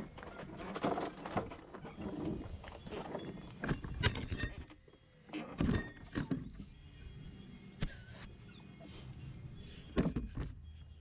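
Irregular metallic clanks, knocks and rattles of hand tools and loose steel parts, from work to take out a truck's rear shock cross member.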